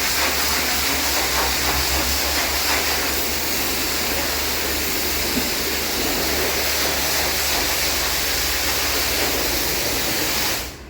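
A car wash spray gun hissing steadily at high pressure over a low motor hum, cutting off abruptly near the end.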